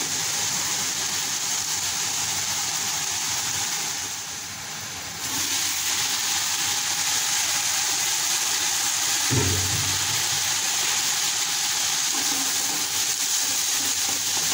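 Chopped greens sizzling as they fry in oil in a pot, with the occasional scrape of a spatula stirring them. The sizzle dips briefly about four seconds in, and a short low thump sounds a little past halfway.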